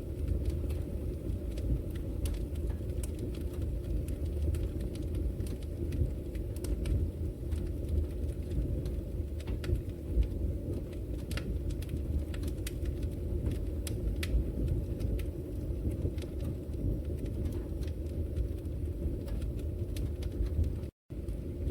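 Wood fire burning in a fireplace: a steady low roar of flames with frequent irregular sharp crackles and pops. The sound cuts out completely for a split second near the end.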